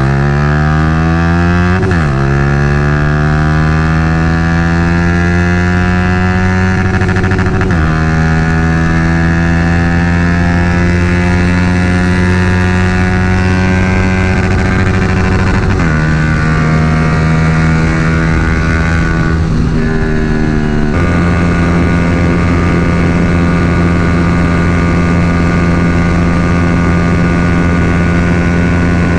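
Yamaha R15 V3's single-cylinder engine with a Daytona full-system exhaust, run hard at full throttle: the note climbs, drops at each upshift about 2, 8, 16 and 20 seconds in, then holds steady at high revs for the last several seconds. The owner reads its weak top end as the engine running lean with the aftermarket exhaust.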